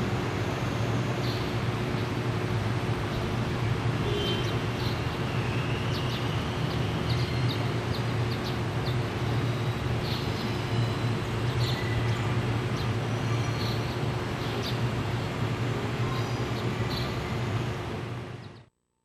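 Steady low machinery hum with a couple of constant tones and scattered short high chirps, fading out near the end.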